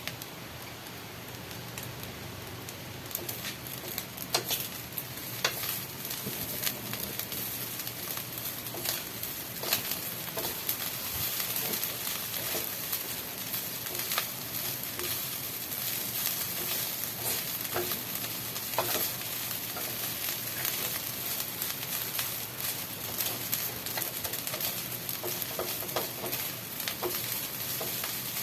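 Food sizzling in a hot frying pan while it is stirred, with scattered sharp clicks and knocks of the utensil against the pan.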